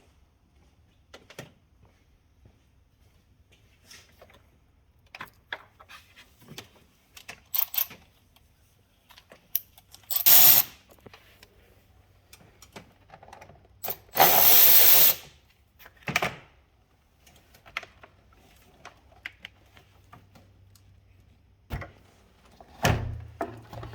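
Scattered clicks and clinks of tools being handled, with two loud bursts of a power tool, each about a second long, partway through.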